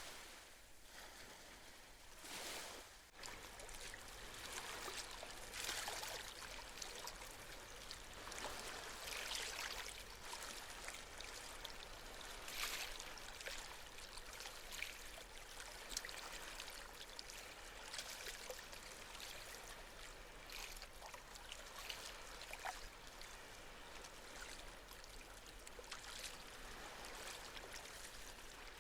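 Small sea waves lapping and washing on the shore, with a steady run of light splashes and trickling water.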